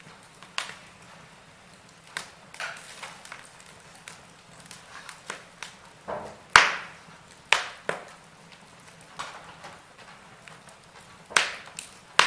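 Wood fire crackling in a fireplace: irregular pops and snaps over a faint steady hiss, the sharpest snaps about six and a half and eleven and a half seconds in.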